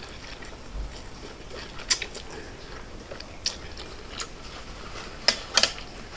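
A person chewing a mouthful of rice noodles from shrimp pho, with several short, sharp mouth clicks and smacks along the way.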